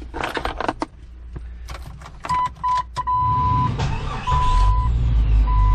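Keys rattling at the ignition of a 1998 Jeep Cherokee XJ, then a warning chime beeping several times at one steady pitch while the engine cranks and, about four seconds in, starts and settles into a steady idle.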